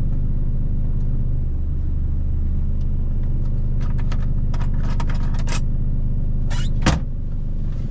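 Steady low rumble of an idling truck engine heard inside the cab, with a run of light clicks and rattles about halfway through and one sharp knock near the end as a knife is fetched from among the utensils.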